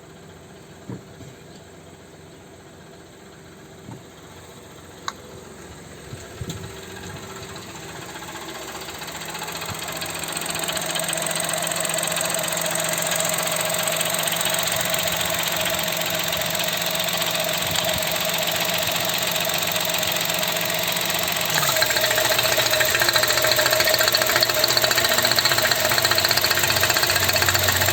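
Chevrolet Tracker's three-cylinder turbo engine idling with a rapid ticking 'tec tec' clatter, which the owner believes is not normal. A few light knocks come in the first few seconds, then the engine sound grows much louder about a third of the way in and again about three-quarters through, ending really loud.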